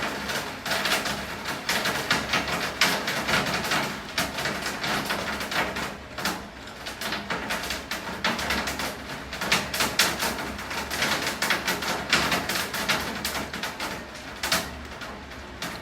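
Rain falling steadily, with many close drops striking a hard surface as a dense run of sharp, irregular taps.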